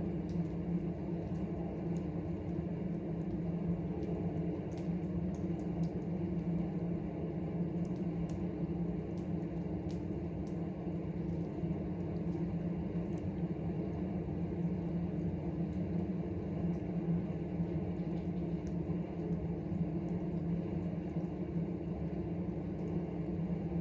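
Wood campfire crackling, with scattered faint sharp pops over a steady low hum.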